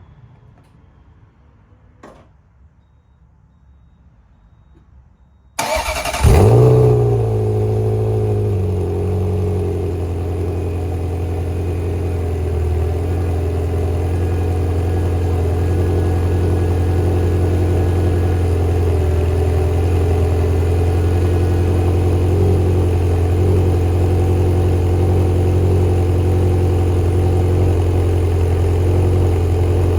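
Ferrari 348 tb's 3.4-litre V8 starting from cold. The starter turns briefly about five seconds in, the engine catches with a quick flare of revs, then drops within a few seconds to a steady fast idle.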